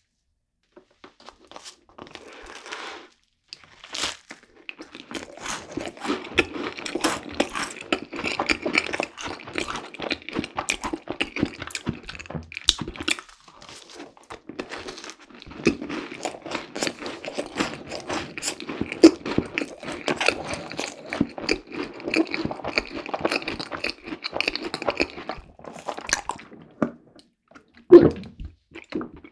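Eating a cream-filled macaron: a crisp bite about four seconds in, then steady chewing in two long stretches with a short pause between. A single sharp knock comes near the end.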